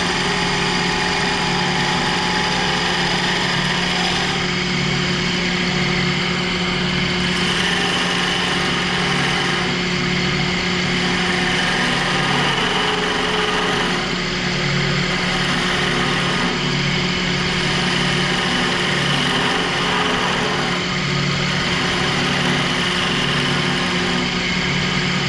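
Woodworking lathe running at high RPM with a steady motor hum, while a round nose scraper is drawn across the spinning wood, adding a continuous scraping noise.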